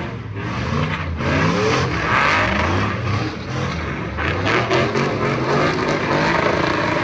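A car engine revving hard, its pitch rising and falling several times, over a steady hiss.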